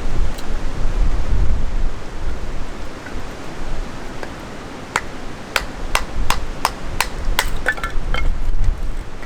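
Steady wind rumble on the microphone, then about five seconds in a quick run of about nine sharp knocks, roughly three a second, some with a short metallic ring.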